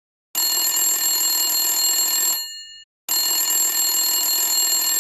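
Telephone bell ringing twice, each ring about two seconds long and ending with a brief ring-out, with a short pause between.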